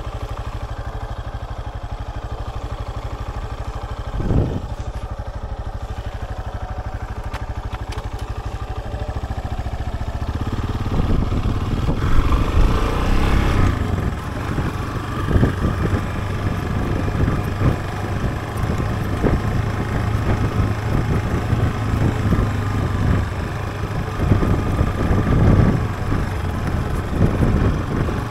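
A Yamaha Serow trail bike's air-cooled single-cylinder engine idles with an even beat for about ten seconds, with one brief thump about four seconds in. It then revs up and pulls away, running under load on a forest road with knocks and rattles from the rough surface.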